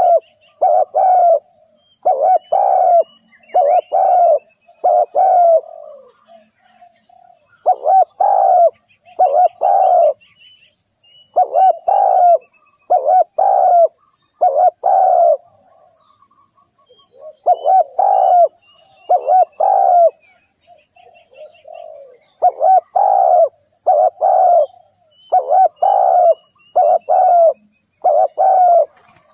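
Spotted dove cooing, a loud run of short coo notes in groups of two to four with pauses of about a second between groups. This is the call that keepers use to lure wild doves. Faint chirps of small birds sound behind it.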